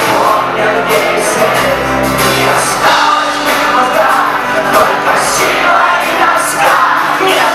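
Live rock band playing loudly in a concert hall, with singing over electric guitars, bass and drums with regular cymbal hits; the audience may be singing along.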